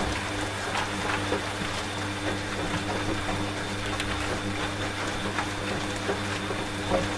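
Washing machine running with a steady low hum, mixed with rain falling and scattered sharp ticks.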